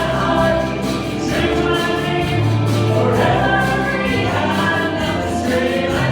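A choir singing a gospel song with instrumental accompaniment, held bass notes changing every second or two beneath the voices.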